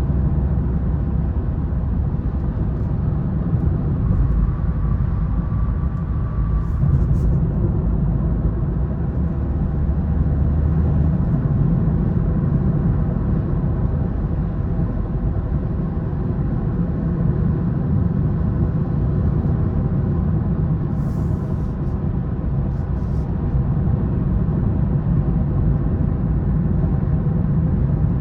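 2020 BMW 330i's 2.0-litre turbocharged four-cylinder engine and tyre/road rumble during steady driving, a continuous low drone.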